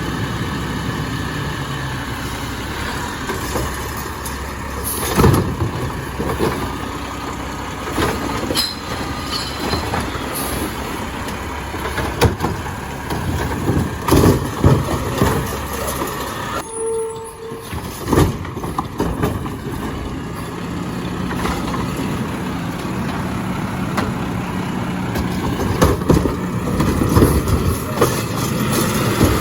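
Garbage truck running, its engine rumbling steadily, with repeated clanks and knocks as cans are handled. The sound cuts out briefly a little past the middle.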